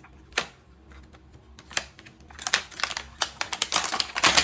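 Hard plastic toys being handled: a single click, another a little later, then a quick run of clicking and clattering through the second half.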